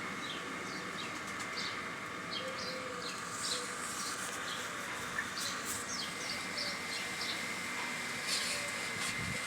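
Birds chirping and tweeting: many short, quick calls, several a second, over a steady background hiss.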